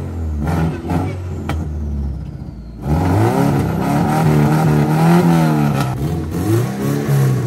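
Car engine revving as the driver tries to pull away while the tires spin freely without traction; an open differential lets the power go to the spinning passenger-side wheels. The engine runs steadily at first, then about three seconds in the revs jump up and rise and fall a few times.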